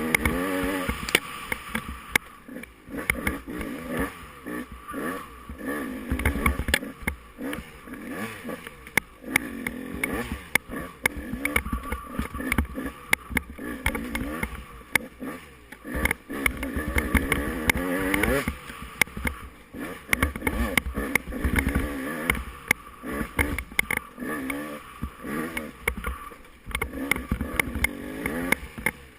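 Off-road motorcycle engine being ridden hard, revving up and falling back over and over, with frequent sharp clicks and knocks.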